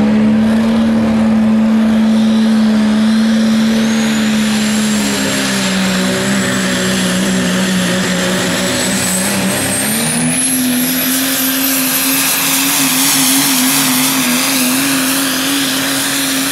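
Super stock diesel pulling truck's engine run flat out under load while dragging the weight sled, with a high turbo whistle climbing steadily in pitch over the first ten seconds. The engine note sags about five seconds in and again just before ten seconds, then jumps up and wavers.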